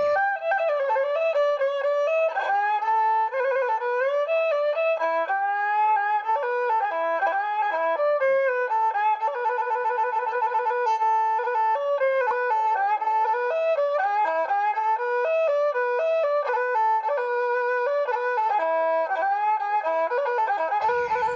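A bowed string instrument playing a slow, ornamented melody, with vibrato on its held notes.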